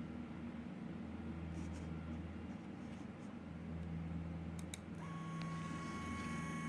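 Small brushless motors of a 3B-R mini quadcopter running with a steady low hum. About five seconds in, after two quick clicks, a steady high whine with several overtones starts. The motors' loud noise is taken by the owner for worn-out bearings.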